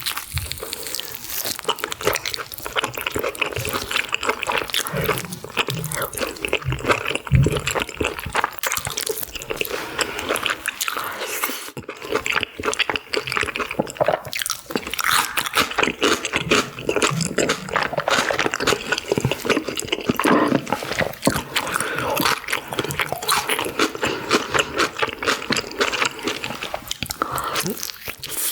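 Close-miked eating: a person biting and chewing food, with dense, irregular wet mouth crackles.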